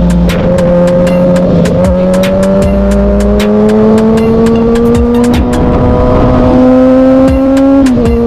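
Motorcycle engine under way, its pitch climbing slowly as it pulls, then dropping suddenly near the end as the gear changes up, with frequent sharp clicks over it.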